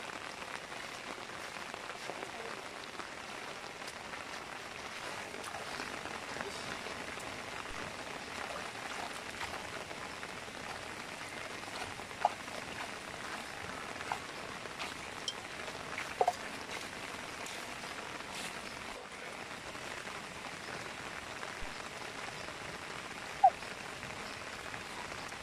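Steady rain falling on grass and puddle water. A few brief sharp sounds stand out above it, the loudest near the end.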